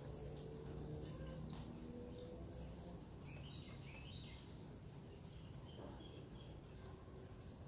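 Small birds chirping: short high notes repeated roughly twice a second, with a few lower twittering calls mixed in. A low droning hum fades away over the first couple of seconds.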